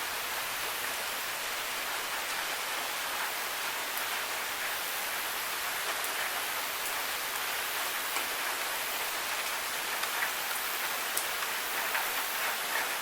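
Steady rain falling on hard surfaces, an even hiss with scattered individual drips ticking through it, a few more of them near the end.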